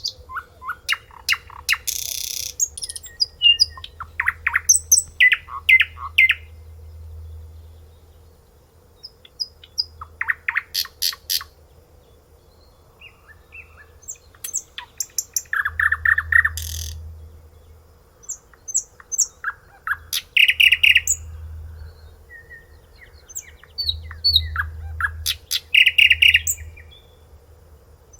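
A songbird singing in separate phrases of rapid repeated notes and trills, about six phrases with pauses of a second or two between them.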